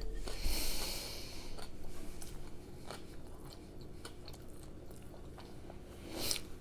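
A person chewing food close to the microphone: faint, scattered wet mouth clicks. A breathy hiss in the first second and another short one near the end.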